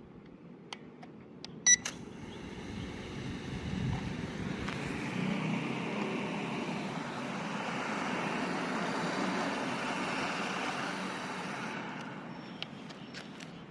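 Small toy drone: a few clicks and a short beep, then its propellers whirring steadily for about nine seconds before cutting off near the end.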